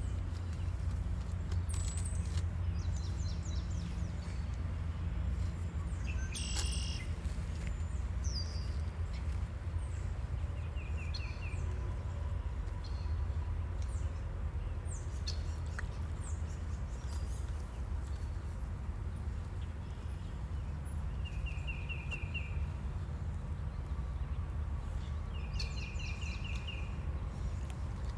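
Wild birds chirping and calling now and then, including a few short rapid trills, over a steady low rumble.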